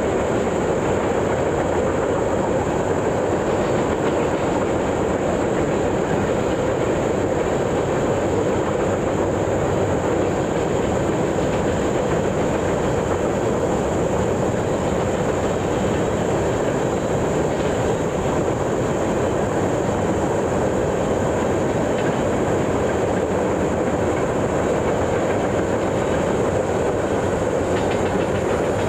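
A train rolling past close by, a steady rumble of wheels on the rails.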